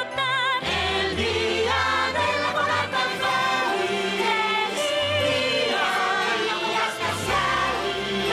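Choir singing a festive song with instrumental backing, held notes over a steady bass line.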